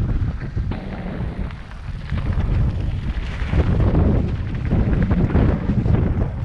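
Wind buffeting the microphone in gusts: a heavy low rumble that swells and dips.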